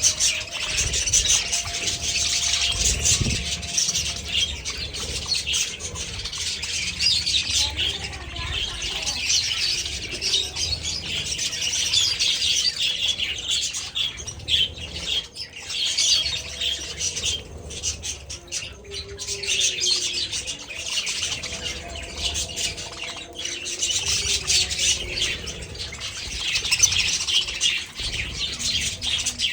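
A flock of budgerigars in an aviary chattering all together, a dense, continuous mass of high chirps and squawks with no pauses.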